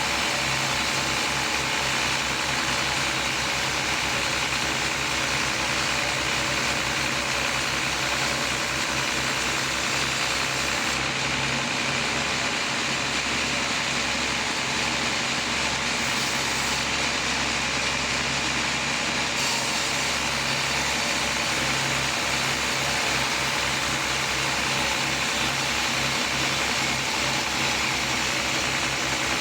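Sawmill machinery running steadily, with a rapid low engine pulse under a steady hum.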